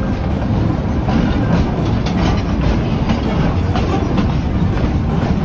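Narrow-gauge passenger train heard from an open car, its wheels rumbling and clacking steadily over the rails.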